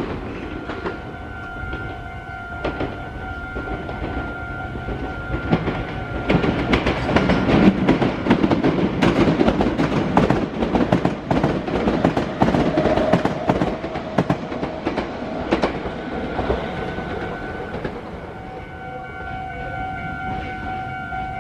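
Meitetsu electric train passing over the junction, its wheels clacking rapidly over rail joints and points, loudest in the middle and easing off near the end. Steady high tones sound under it at the start and again through the last few seconds.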